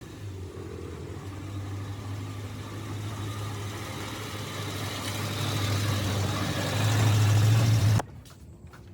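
Electric motor running with a steady low hum, growing louder, then cut off abruptly about eight seconds in.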